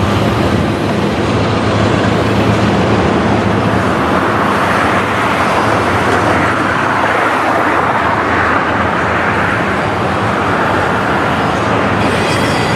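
Freight train rolling past: a steady rumble of wheels on rail over a low engine hum, a little louder midway.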